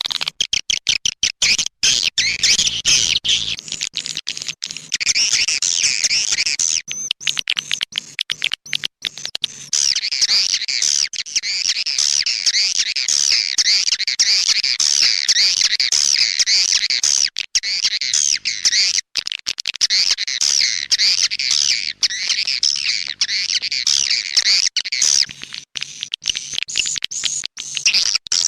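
Swiftlet lure-call recording: a dense, continuous chatter of rapid, high chirping twitters from many swiftlets, broken by frequent brief cut-outs. It is the 'tarik' call played to draw swiftlets into nest houses.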